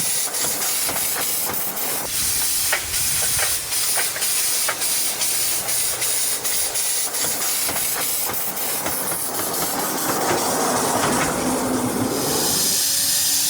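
Steady hissing with many irregular clicks and knocks. About ten seconds in a rushing noise swells, and a steady two-note hum joins near the end.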